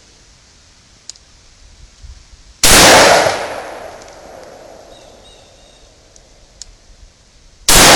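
Smith & Wesson Governor revolver fired twice, about five seconds apart, each shot with a long echoing tail.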